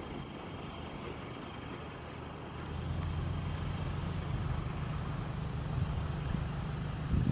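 Off-road 4x4's engine running at low, steady revs, getting louder about three seconds in.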